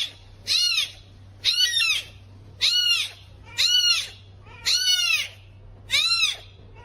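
A small animal crying over and over: seven high calls, each rising and then falling in pitch, about one a second.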